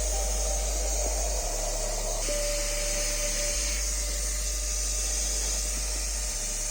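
Steady whirring hiss of a small electric machine, with a low bass line underneath that shifts note every two to three seconds.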